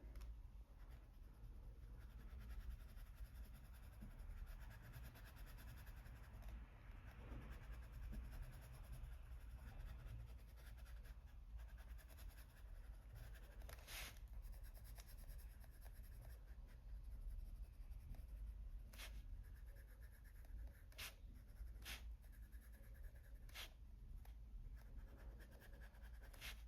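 Faint scratching of a colored pencil shading on paper in small, steady strokes, with a few soft clicks in the second half.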